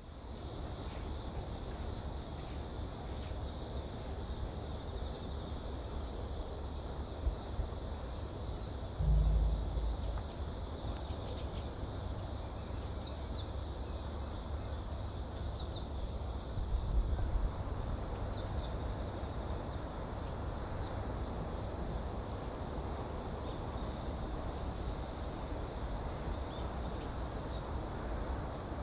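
Steady, unbroken chorus of insects, typical of autumn crickets, with scattered short high bird calls over it. A low rumble of wind on the microphone runs underneath, with two stronger thumps, about nine and seventeen seconds in.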